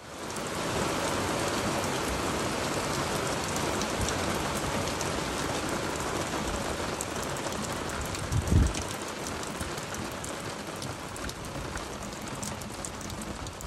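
Steady rain falling on a moored sailboat, a dense patter of drops on the deck and fittings. A brief low thump stands out just past the middle.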